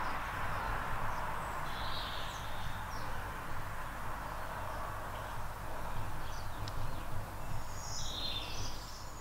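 A few short bird chirps, about two seconds in and again near the end, over a steady background hiss and low hum.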